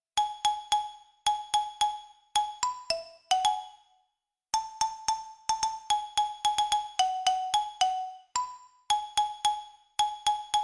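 A melody of single struck notes with clear, bell-like ringing tones, each starting sharply and dying away quickly, played in short phrases with brief pauses between them.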